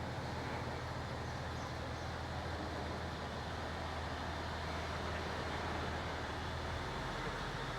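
Diesel locomotive engine running with a steady low drone; the low engine note shifts about seven seconds in.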